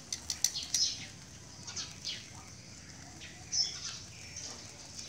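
Small birds chirping now and then in short high calls, with a quick run of sharp clicks in the first second.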